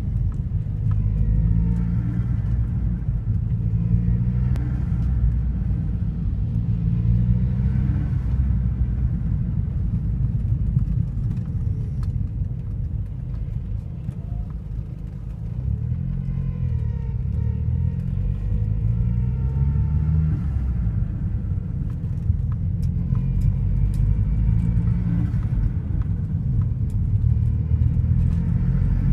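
Vauxhall Zafira GSi's turbocharged engine running with a low rumble, its note rising and falling back several times as it revs. It is making a strange noise whose cause the owner does not know.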